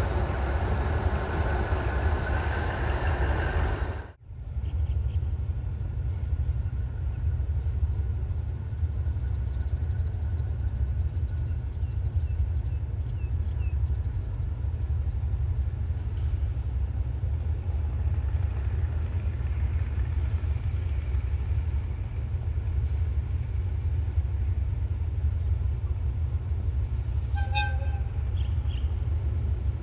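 Diesel train locomotive running with a steady low rumble, a short horn toot near the end. The first four seconds hold a louder, broader train noise that cuts off suddenly.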